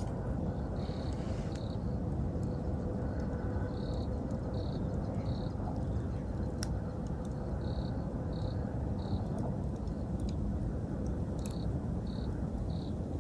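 Campfire burning with a steady low rush and a few sharp crackles and pops. Over it an insect chirps in short pulses, in groups of two or three.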